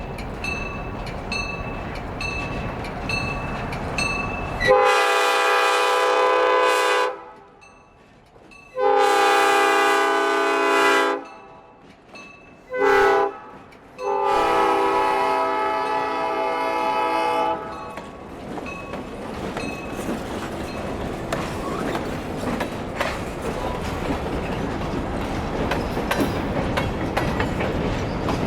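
Diesel locomotive air horn blowing the grade-crossing signal: two long blasts, a short one and a final long one, over the running noise of the train. Before the horn a bell rings about twice a second; after it the train's wheels and cars keep rolling past.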